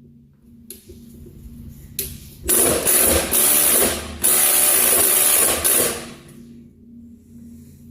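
Impact wrench hammering on a tight suspension bolt in two runs of about a second and a half each, with a short blip just before. The bolt does not break loose.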